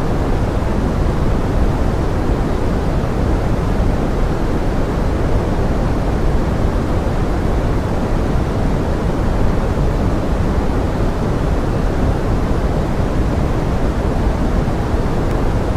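Steady pink noise mixed as forest rain: an even, unchanging hiss, heavier in the low end, with no separate drops or other sounds.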